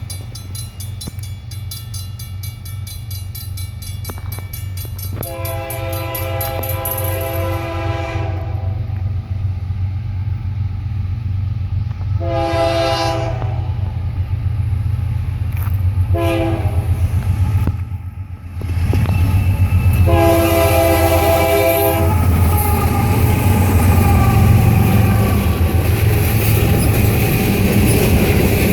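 Union Pacific diesel locomotive sounding its multi-chime air horn in four blasts, long, long, short, long (the grade-crossing signal), over a steady low engine drone as it approaches. From about two-thirds of the way in the train passes close by, with a loud engine rumble and wheels clattering over the rails.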